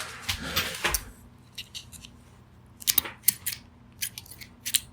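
A hand cutting tool biting into the plastic of a USB plug or wall adapter: a rasping crunch in the first second, then a string of sharp clicks and cracks.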